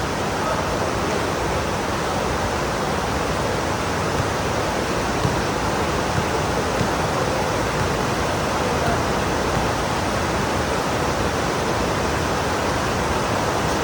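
Heavy rain pouring down, a steady, dense hiss with no break.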